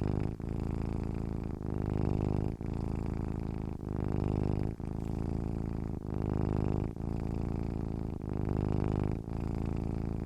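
Domestic cat purring: a low, continuous rumble that swells and dips in a regular rhythm, about once a second.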